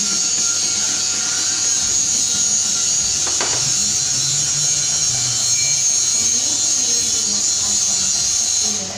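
Motor-driven palm-sugar slicing machine running steadily, with a constant high-pitched whine and a brief knock about three and a half seconds in.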